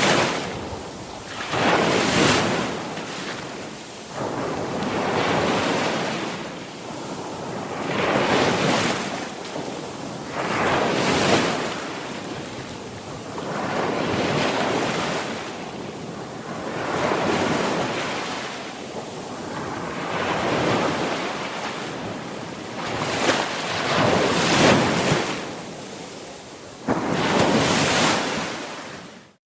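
Sea waves breaking and washing on the shore, the surf swelling and falling back every two to three seconds. The sound drops out abruptly for a moment at the very end.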